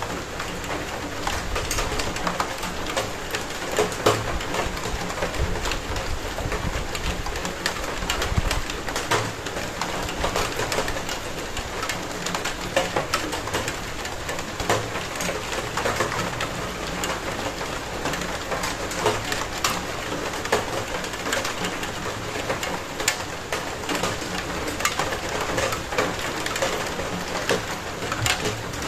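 Steady rain, with many drops pattering and dripping on a hard surface, and a bird calling in the background.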